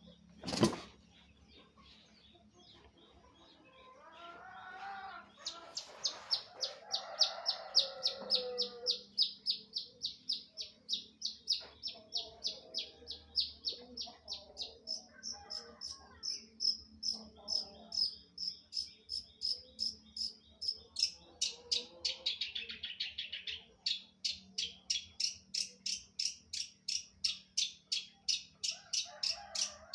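Long-tailed shrike (cendet) singing: a fast, steady run of short high chirps, about three a second, from about five seconds in. A single sharp click comes just after the start.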